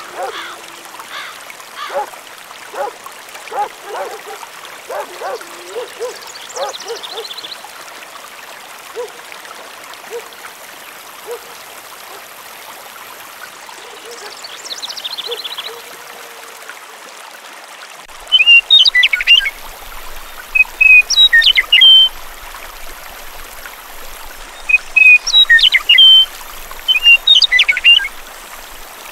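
Birds chirping over the steady rush of running water. Lower repeated calls come in the first several seconds, short high trills follow, and loud clusters of sharp high chirps come in bursts through the second half.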